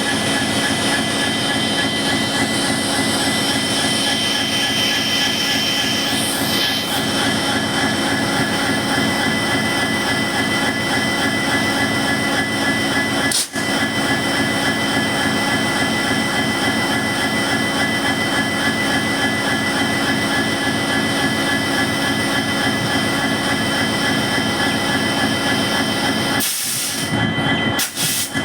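EMD WDG4 diesel locomotive's turbocharged two-stroke V16 engine running steadily, its turbocharger giving a high, jet-like humming over the engine's drone. The sound breaks off for an instant about halfway through and dips briefly near the end.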